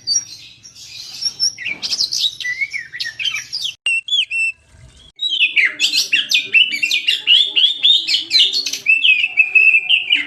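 Oriental magpie-robin singing a fast run of varied whistled notes, broken by a pause of about a second roughly four seconds in, after which the song resumes denser and without a break.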